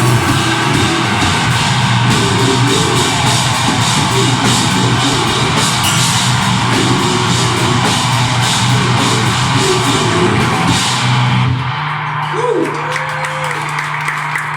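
Deathgrind band playing live: drums, distorted guitars and growled vocals, cutting off suddenly about twelve seconds in and leaving a low steady hum and a voice.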